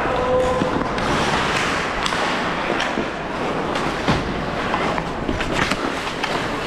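Game play in a rink: a steady haze of scraping and distant voices with many sharp knocks of sticks and the puck or ball, scattered irregularly throughout.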